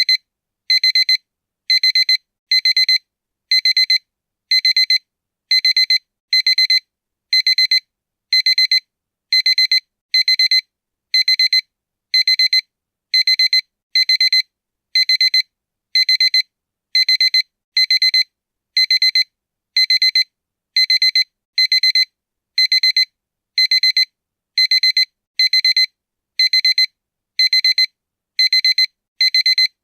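Electronic school bell sound effect: short high-pitched beeps repeating a little faster than once a second, with no pause.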